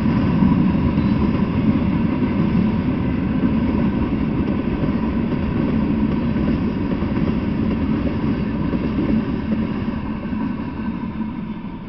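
Freight train of covered hopper and tank cars rolling past: a steady rumble of steel wheels on rail that begins to fade near the end as the last cars go by.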